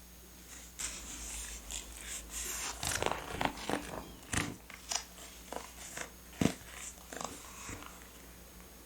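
Close-up paper handling: crisp rustling and crackling with a string of sharp taps and clicks, busiest in the middle and with one louder tap about six and a half seconds in, as journal pages and paper pieces are handled and pressed down.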